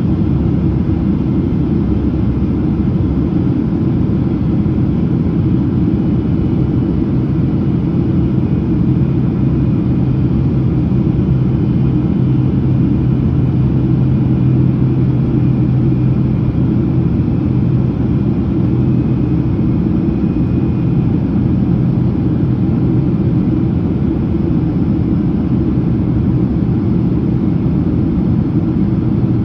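Steady cabin noise of a Boeing 767-300ER airliner on approach: a low rumble of engines and airflow, with a low hum that grows stronger through the middle.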